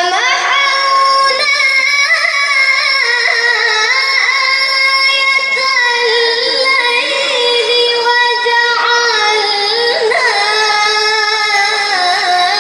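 A child reciting the Quran in melodic tilawah style, in a high voice. It holds long notes with ornamented turns that rise and fall.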